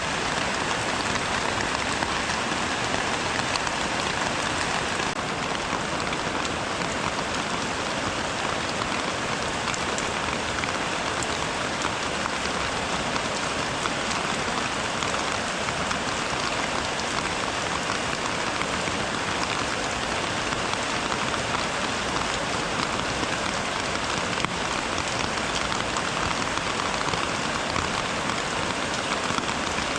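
Steady rain falling, a dense, even patter of drops that holds constant throughout.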